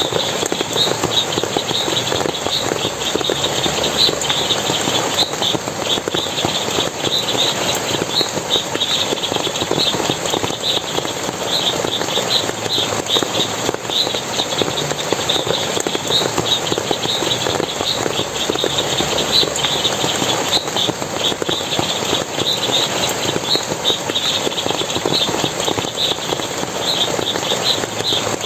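Forest water splashing and running in a steady rush, with short high chirps repeating a few times a second throughout.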